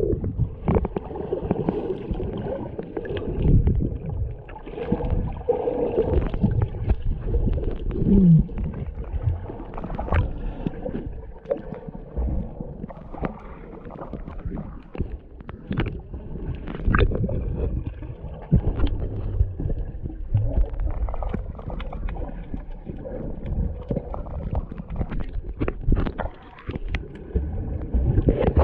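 Muffled water sounds: irregular low rumbling and gurgling with scattered knocks and splashes.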